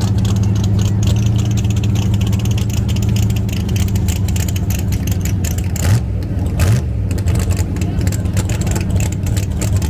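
Drag race car engine idling with a rough, crackling exhaust, blipped twice briefly about six and seven seconds in.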